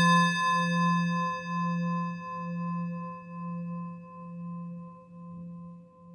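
A struck singing bowl ringing out and slowly fading. Its low hum throbs about once a second, and the fainter higher overtones die away first.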